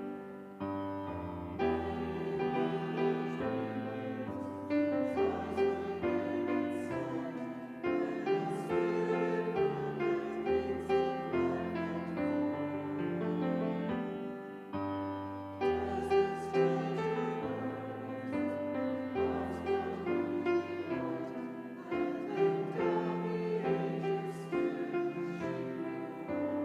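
Hymn singing with piano accompaniment, the piano playing chords under voices carrying a slow melody.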